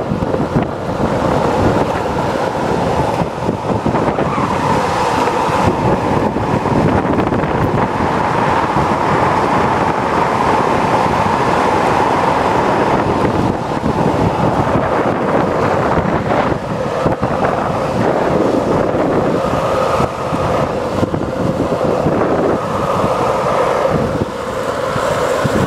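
Longboard wheels rolling fast on asphalt during a downhill run: a steady rolling roar with a faint hum, and wind rushing over the microphone.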